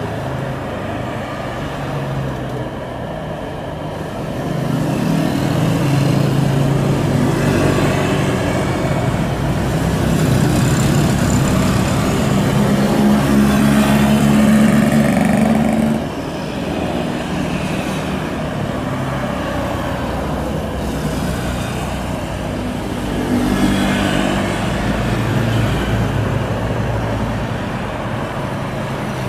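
Jet engines of a Boeing 777-300ER (GE90 turbofans) on landing: a loud, continuous rumble that swells to a peak and drops off suddenly about sixteen seconds in, then swells again briefly near the end.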